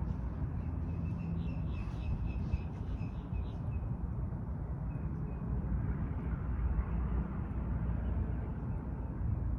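Steady low outdoor rumble, with a bird calling a quick string of short, high chirps over it for the first few seconds.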